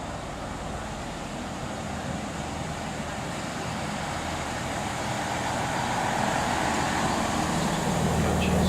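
A train running, its rumble and low engine hum growing steadily louder.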